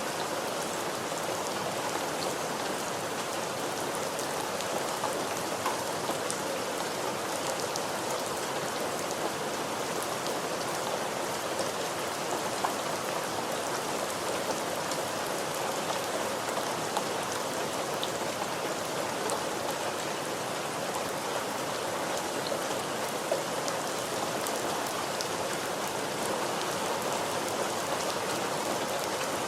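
Steady rain falling and pattering on a surface, a dense even hiss with many small drop ticks throughout.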